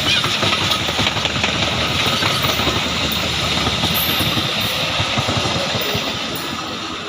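Train passing close by: a steady, loud rumble that eases slightly near the end.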